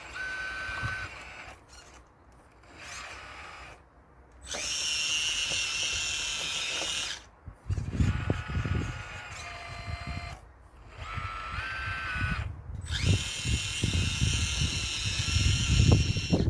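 Radio-controlled scale Caterpillar excavator's small electric drive whining as it works, its pitch stepping up and down and cutting in and out with each control movement. From about halfway, low knocks and rumbles of stones shifting and falling as the wall is broken up, loudest near the end.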